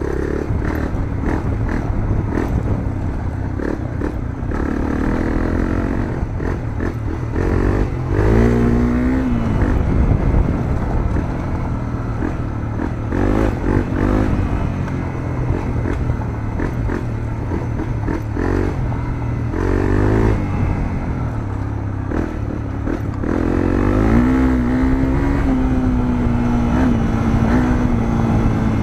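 Honda CRF250L's single-cylinder four-stroke engine through a Moriwaki aftermarket muffler, heard onboard while riding: the revs rise and fall again and again with throttle and gear changes, with a longer climb in revs near the end.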